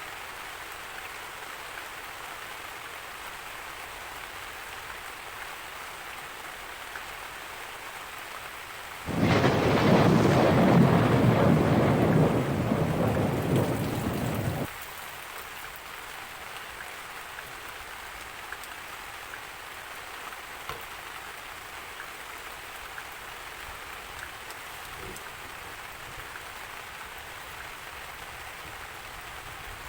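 Steady rain falling. About nine seconds in, a loud peal of thunder rumbles for about six seconds, then cuts off abruptly, leaving the rain alone again.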